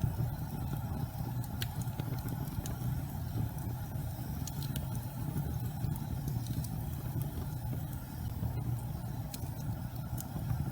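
Gas fireplace flames burning with a steady low rumble, with sparse faint crackles and ticks scattered through it.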